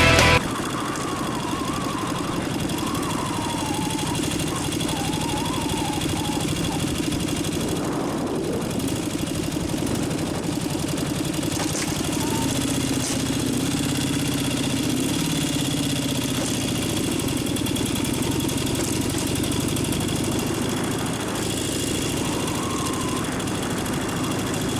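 Dnepr K-650 motorcycle's flat-twin engine running steadily at a low, even pace.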